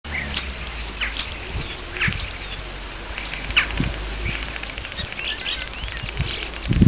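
A small bird chirping: short sharp calls about once a second, over a steady background hiss and low rumble.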